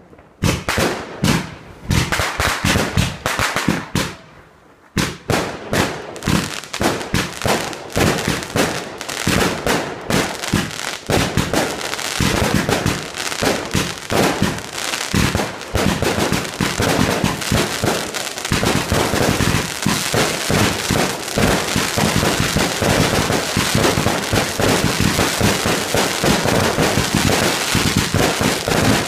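Fireworks display: a run of sharp bangs that come faster and faster, with a brief lull about four seconds in, and merge into a continuous barrage after about ten seconds.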